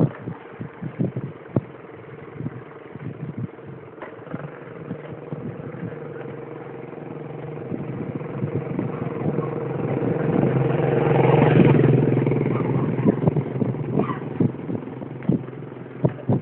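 A motor vehicle's engine hum swells as it approaches, is loudest about two-thirds of the way through, and fades as it passes. Throughout, sharp clicks and knocks come from the mountain bike rattling over rough ground.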